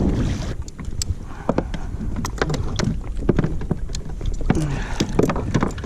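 Irregular knocks and taps of handling on a fishing kayak, over a steady low wind rumble on the microphone.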